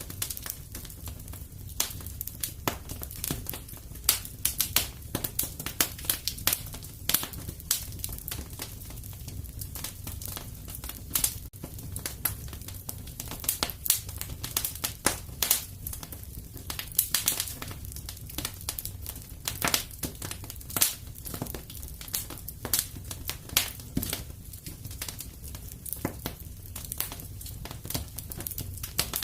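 Wood fire crackling in a fireplace: irregular sharp snaps, some louder than others, over a steady low rumble.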